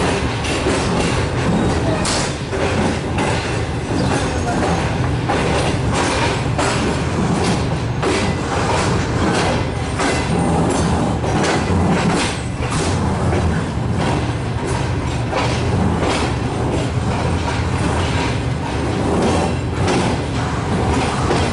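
Pakistan Railways passenger train running, heard from aboard a carriage: a steady rumble of the running gear with frequent clacks of the wheels over rail joints.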